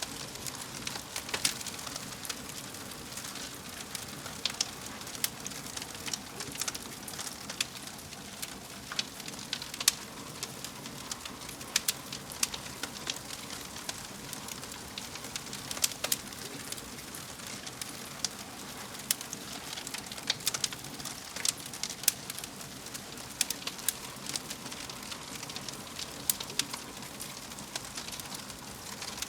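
Fire in a fireplace crackling: a steady soft hiss under frequent, irregular sharp pops.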